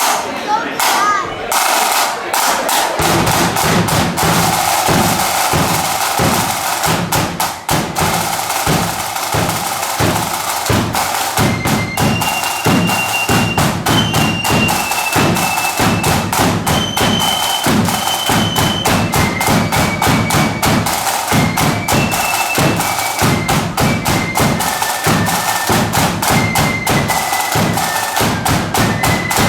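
Marching band playing: snare drums rattle into the tune, the bass drum joins with a steady beat about three seconds in, and a high-pitched melody comes in about twelve seconds in.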